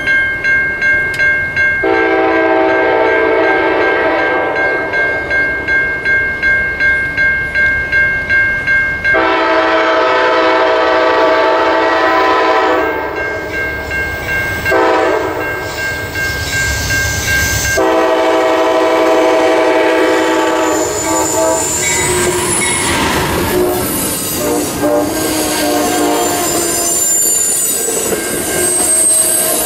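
Railroad grade-crossing bell ringing about twice a second while an approaching Amtrak passenger train sounds its horn in a series of long blasts, the first about seven seconds long. From about 21 seconds in the train passes at speed, its wheels clattering over the rails with some high wheel squeal.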